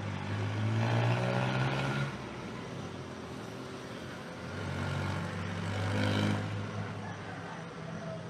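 Motor vehicles passing by with their engines running, one in the first two seconds and another around the middle, each rising and fading away.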